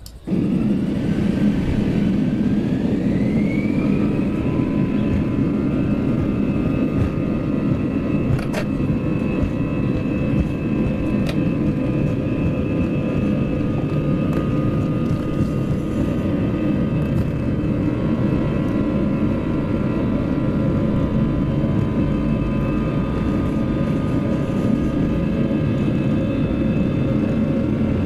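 Airbus A320 jet engines on takeoff: a whine rises over the first few seconds as the engines spool up, then holds steady over a heavy low rumble.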